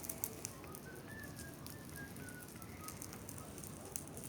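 Campfire crackling faintly with scattered small pops. About a second in, a short run of faint whistle-like notes steps down in pitch.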